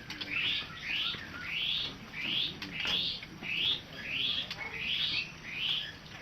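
A songbird calling over and over: about ten short rising notes, roughly one every 0.6 seconds.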